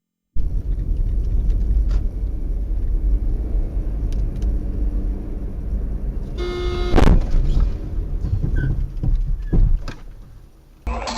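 Dashcam recording of a car's engine and road noise rumbling. About seven seconds in, a car horn sounds briefly and a loud impact bangs at once, then the rumble fades away. Music starts near the end.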